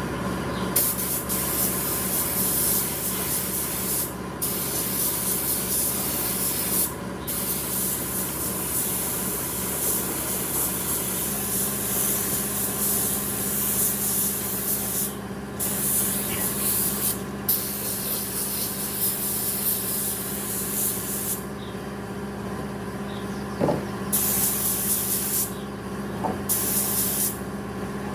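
Woodworking power tool: a steady motor hum under a loud hiss that runs in spells of a few seconds, broken by short pauses several times.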